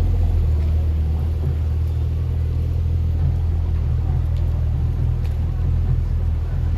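Deep, steady engine rumble of a large motor yacht's diesel engines running at low revs as it manoeuvres out of the harbour.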